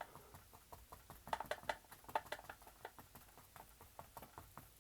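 Faint, quick taps of a paintbrush dabbing paint onto a canvas, about four to five a second, busiest between one and two seconds in.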